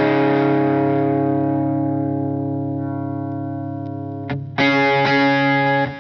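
Electric guitar played through a light-gain overdrive pedal, the Donner Dumbal Drive. A mildly distorted chord is left to ring and slowly fade for about four seconds, then a new chord is struck near the end.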